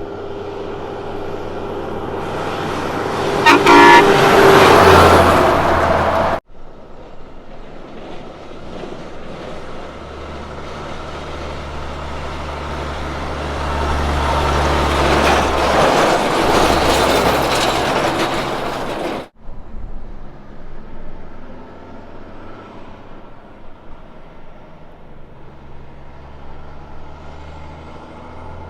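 Road trains passing one after another, their diesel prime movers and many trailer tyres rising and falling in level. The first sounds a short horn blast a few seconds in as it nears, and a steadier, quieter engine sound follows in the last third.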